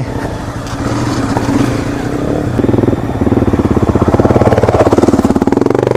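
Honda CRF250L's single-cylinder four-stroke engine running off-road under light throttle. The throttle opens about two and a half seconds in and the note climbs near the end.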